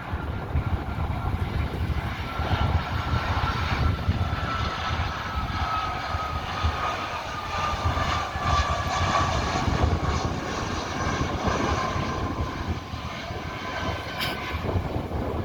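Airbus A321neo airliner's jet engines whining as it passes on arrival, the engine tone sliding slowly down in pitch as it goes by. Wind rumbles on the microphone underneath.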